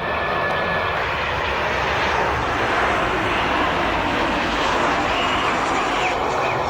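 Jet airliner's engines running loud and steady, a dense rushing noise with thin high tones coming and going over it.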